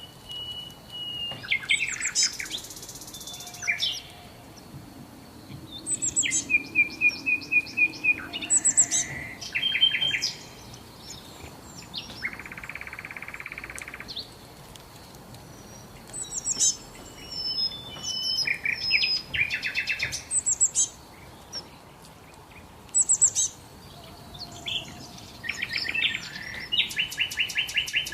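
Songbirds singing and calling: varied high chirps and quick trills in phrases a second or two long, separated by short pauses.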